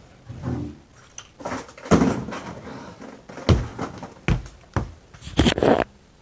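Irregular knocks and thuds, about five of them, from the parts of a dead refrigerator being handled and struck as it is taken apart; no power tool runs.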